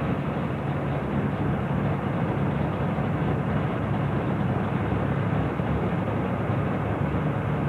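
Engines of a late-1960s Ford Mustang coupe and a second muscle car running at low speed as they creep forward: a steady low rumble with no revving.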